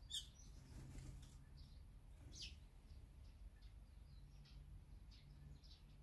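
Faint, scattered short chirps of small birds at a seed feeder, with a sharper call just after the start and another about two and a half seconds in.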